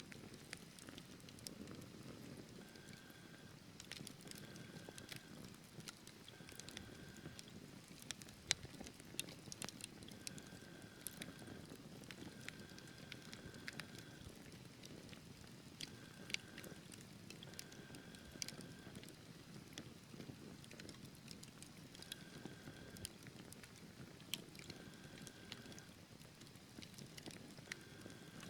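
Wood fire crackling in a fireplace: irregular sharp pops and snaps over a low, steady rumble of burning logs, with short faint whistling tones now and then.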